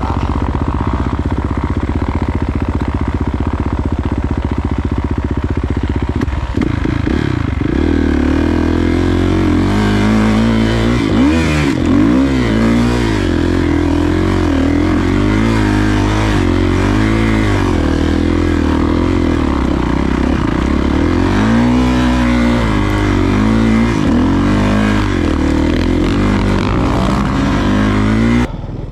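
Dirt bike engine running steadily, then from about six seconds in revving up and down again and again under throttle as it climbs a steep, slippery snow-covered slope. The sound drops away abruptly near the end.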